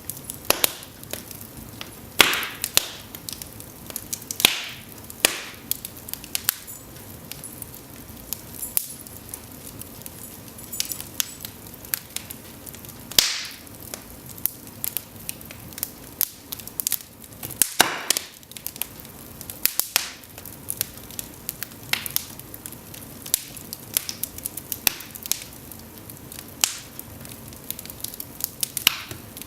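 Cedar logs burning in an open fireplace: irregular crackling and snapping over a low steady hiss, with a few louder pops.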